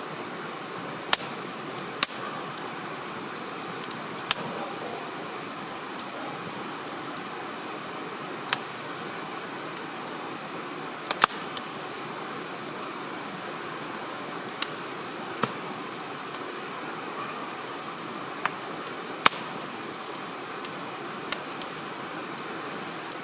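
Wood campfire crackling: sharp, irregular pops, about one every second or two, over a steady background hiss.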